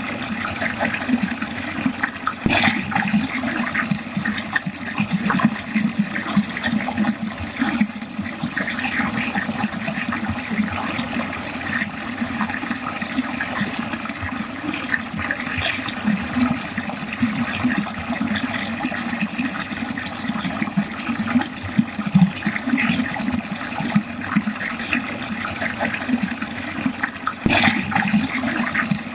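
Water running steadily down a drain, with an uneven splashing flutter. There is a brief click about two seconds in and another near the end.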